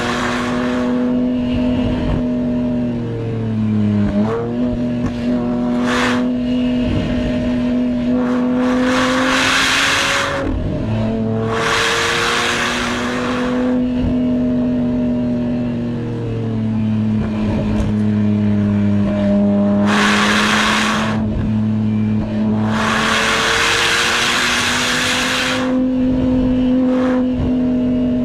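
Porsche 987 Boxster Spyder's 3.4-litre flat-six engine, heard from inside the cabin while driven hard. Its note holds steady for a few seconds at a time, then drops and climbs again. Several times a louder rushing noise swells up for a second or two.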